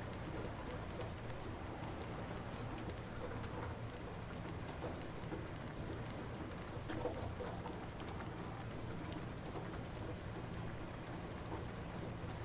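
Steady light rain falling, with scattered small drip ticks over a soft even hiss and a low rumble beneath.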